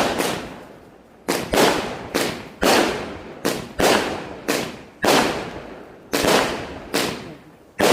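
Killer Clown 36-shot, 200-gram firework cake firing its color-and-bang shells: about a dozen sharp bangs at an uneven pace, a few tenths of a second to a second apart, each followed by a fading echo.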